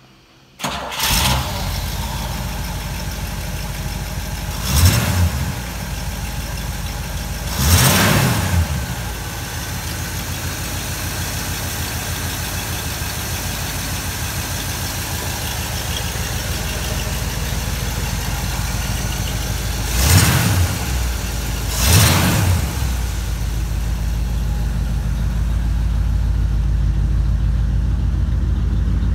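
1959 Pontiac V8 with three carburettors (Tri-Power) starting about half a second in, then idling, with four quick throttle blips that rev it up and let it fall back. Near the end the idle grows deeper and louder.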